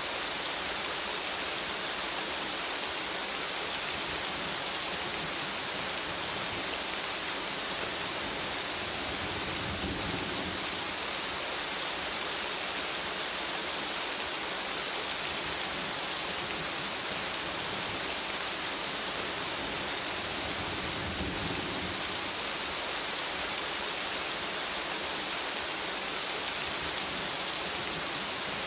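Steady rain falling in a forest, a dense even hiss. Two brief low rumbles rise under it, about a third of the way in and again about three quarters of the way through.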